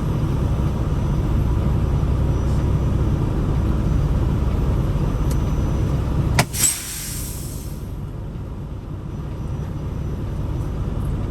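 Peterbilt 579 semi-truck's engine running with a steady low rumble. About six and a half seconds in there is a sharp click and then a short burst of air hiss, after which the rumble is quieter.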